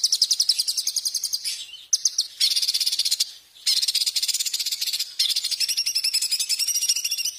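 Songbird singing in high, rapid chattering trills of about a dozen notes a second, in bursts of one to two seconds with short breaks between.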